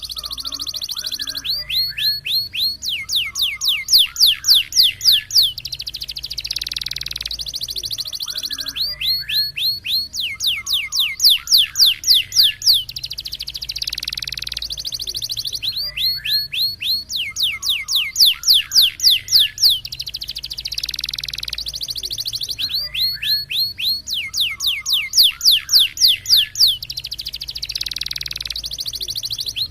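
Domestic canary singing a roller-type song: a burst of rapid falling whistled notes, then a quicker trill, then a long rolling buzz. The same phrase repeats almost identically about every seven seconds, four times over.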